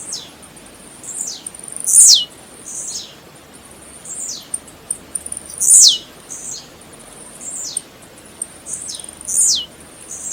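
Blue-black grassquit (tiziu) singing: short, high, sharp notes that sweep steeply downward, three loud ones about every three and a half seconds, with fainter notes between them.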